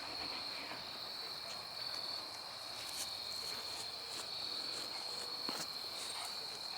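Insects, likely crickets, trilling in one steady high-pitched tone throughout, with scattered faint clicks and rustles.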